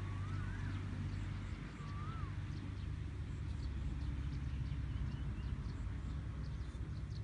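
A bird calling with short whistled notes that rise and then fall, three of them in the first couple of seconds, then a few faint high chirps, over a steady low rumble.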